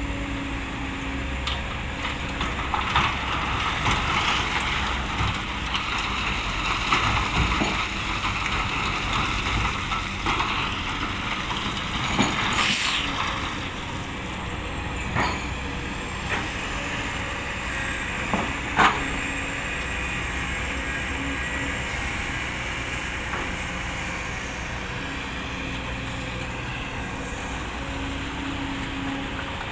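Kobelco SK200 hydraulic excavator's diesel engine running steadily, its note swelling and easing as it works. A few sharp knocks sound over it, the loudest about two-thirds of the way through.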